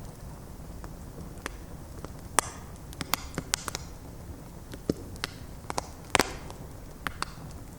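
Wood bonfire crackling: irregular sharp pops and snaps of burning logs over a steady low rumble of the flames, with a quick cluster of pops about three seconds in and the loudest snap about six seconds in.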